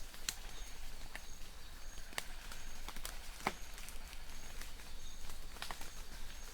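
Light rain in a forest: a steady hiss with individual drops ticking and plopping at irregular moments. Behind it a distant bird repeats a short, thin high note about twice a second.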